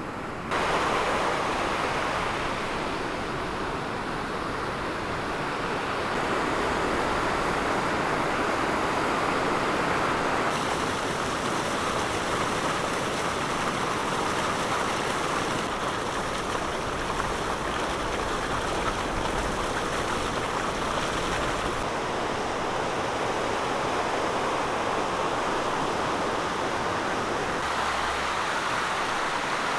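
Floodwater rushing steadily down a swollen beck, a continuous loud roar of running water that steps up in level about half a second in.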